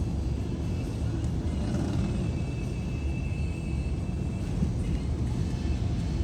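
Steady low rumble of a vehicle on the move, engine and road noise, with a faint thin high whine for a second or two in the middle.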